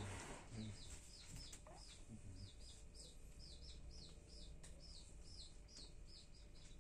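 Small bird chirping faintly: short high chirps about three times a second, often in pairs. There is a brief rustle at the very start.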